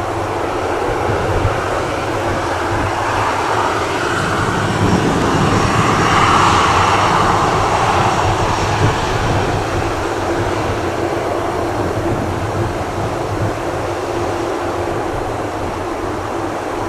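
Boeing 737-800 with CFM56 jet engines passing close by, its engine noise swelling to a peak about six seconds in and then slowly fading.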